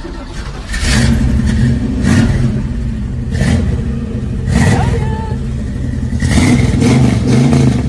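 Eleanor Mustang's V8 engine running just after a start, blipped several times: short revs about one, two, three and a half and four and a half seconds in, then a longer rev near the end.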